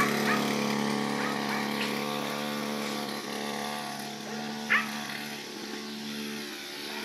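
A motorcycle engine running at a steady pitch, gradually fading as the bike rides away. A short, sharp high yelp cuts in about halfway through.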